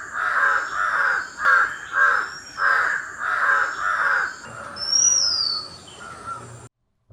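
A crow cawing, about eight harsh caws in quick succession, followed about five seconds in by a single high whistled bird note that rises and falls.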